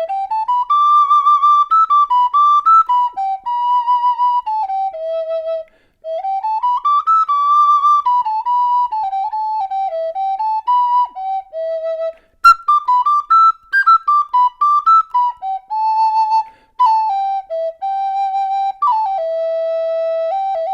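Six-hole Native American flute in high E minor, made of quilted maple and walnut, playing a slow stepwise melody. It comes in four phrases with short breaths between them and ends on a long held low note.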